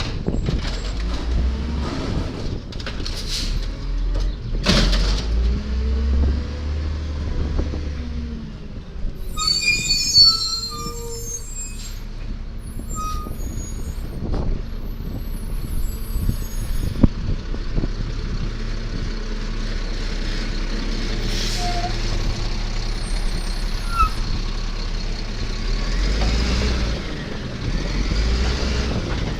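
1999 Volvo Amrep Octo automated side-loader garbage truck's diesel engine running, with air-brake hisses and a few sharp knocks.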